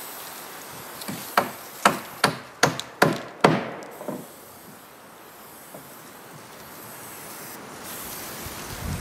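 A hammer striking wood about six times in quick succession, roughly two blows a second, with a weaker blow after them and then outdoor quiet with a little wind.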